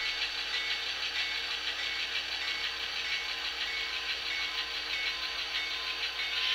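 Digitally reproduced diesel engine sound from the SoundTraxx Tsunami2 sound decoder of an HO scale Athearn Genesys GP40-2, running steadily through the model's small onboard speaker.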